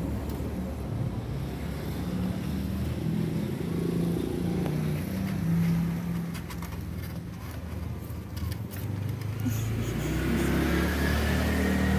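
Steady low rumble of a motor vehicle engine, with a faint rising tone near the end.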